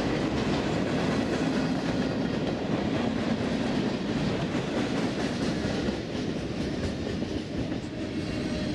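Freight cars rolling past on the rails: a steady rumble and clatter of steel wheels on track, easing slightly as the last cars go by near the end.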